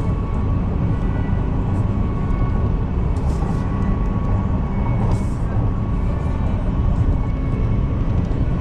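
Steady running noise of an electric train, heard from inside the passenger cabin while it travels at speed: a deep, even rumble with a faint steady whine above it and a few light clicks.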